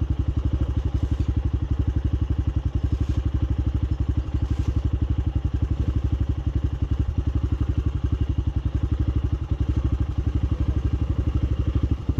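A small single-cylinder motorcycle engine idling steadily, with an even, rapid pulse.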